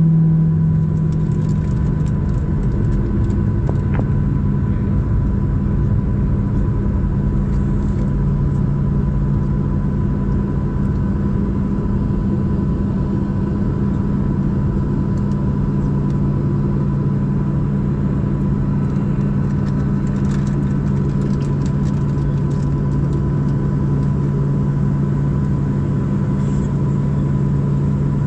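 Boeing 737-700's CFM56-7B turbofan engines at takeoff power: a steady low rumble and hum with a constant high fan tone above it.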